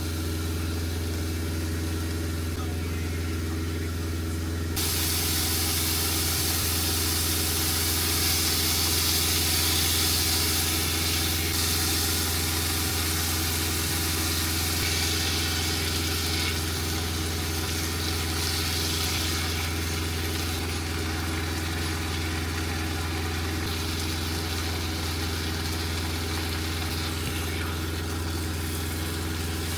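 A semi truck's engine idling with a steady low hum. About five seconds in, food in a hot pan starts to sizzle loudly, swelling and easing over the rest of the time.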